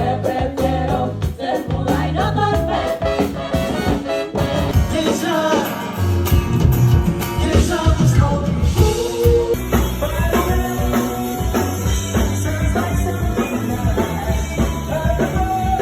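Band music with singing and drums, with a clear change in the sound about nine and a half seconds in.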